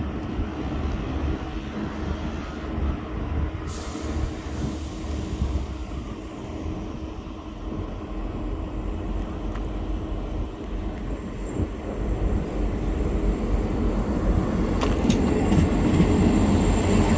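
Train running on the line, a steady low rumble with a high whine, growing louder over the last few seconds as it comes closer.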